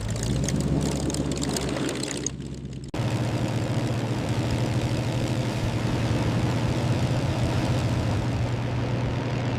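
Propeller aircraft piston engine starting up and settling into a steady run. About three seconds in, the sound cuts abruptly to another steady propeller engine drone.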